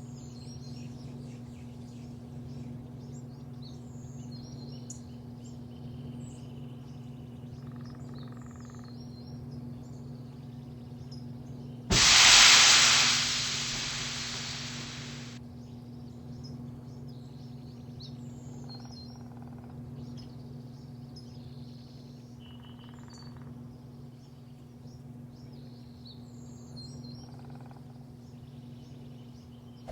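Birds chirping over a steady low hum. About twelve seconds in, a sudden loud hiss starts, lasts about three seconds and fades out.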